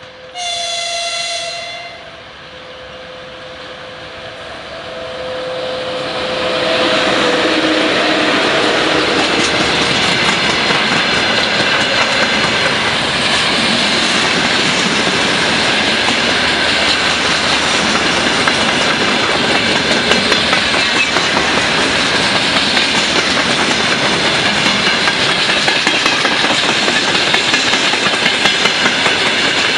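VL80S electric locomotive giving one short horn blast, then its freight train drawing near and rolling past: a steady loud rush of steel wheels on rail with clickety-clack over the rail joints.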